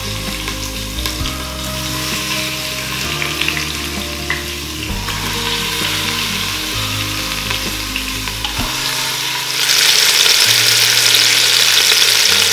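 Chicken thighs sizzling in hot olive oil in an Instant Pot's inner pot on sauté mode. The sizzle grows clearly louder about ten seconds in.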